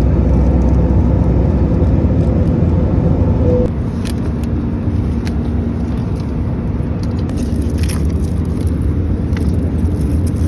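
Steady roar of airflow and engines in an Airbus A319's cabin at cruise, mostly a deep low rumble with a faint hum. It eases slightly about three and a half seconds in.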